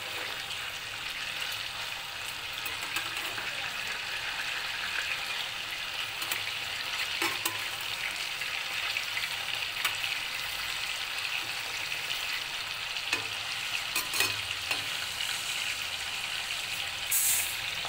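Prawns frying in hot mustard oil in a kadai: a steady sizzle. A silicone spatula knocks and scrapes against the pan now and then as the prawns are turned.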